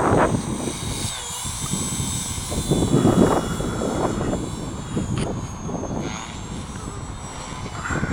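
Gaui Hurricane 255 electric RC helicopter in flight: a steady high motor and rotor whine that dips in pitch about a second in and again around six seconds. Gusty wind rumbles on the microphone underneath.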